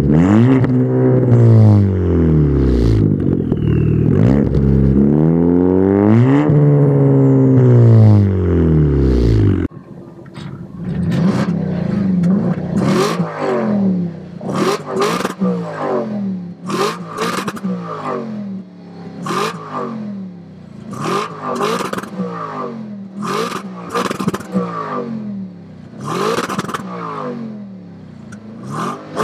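Car engine revved hard over and over, loud, its pitch rising and falling in sweeps. About ten seconds in it cuts to a quieter passage of short repeated revs, each ending in sharp crackling pops.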